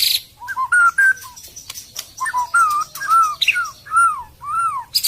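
White-rumped shama (murai batu) singing: a brief harsh buzzy note at the start, then a quick run of clear whistled notes, and from about two seconds in a series of arching whistles that rise and fall, about two a second.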